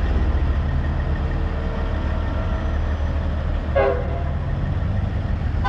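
Heavy diesel truck engine running with a steady low rumble, with a brief horn-like toot about four seconds in.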